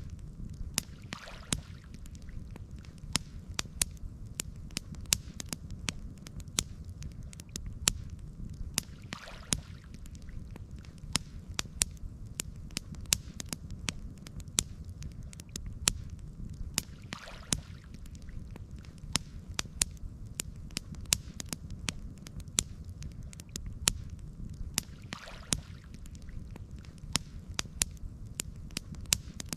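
Campfire crackling: a dense, irregular run of sharp pops and snaps over a steady low rumble, with a faint swish about every eight seconds.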